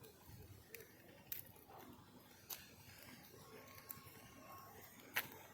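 Near silence broken by a few faint, sharp clicks, the loudest about five seconds in.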